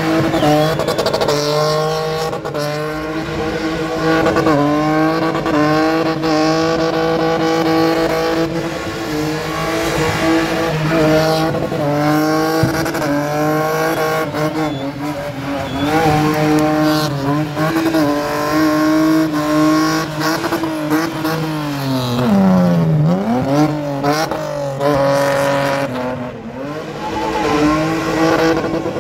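BMW E30 spinning car's engine held at high revs while its rear wheels spin against the tarmac, with tyre screech. The note holds steady with small wobbles. About three-quarters of the way through, the revs drop sharply and climb straight back.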